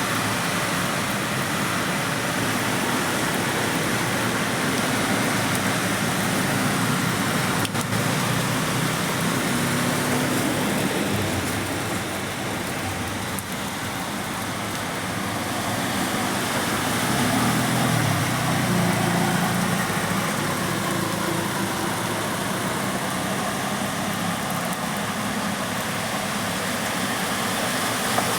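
Steady heavy monsoon rain with motor traffic on a wet road, a low engine hum swelling twice as vehicles pass.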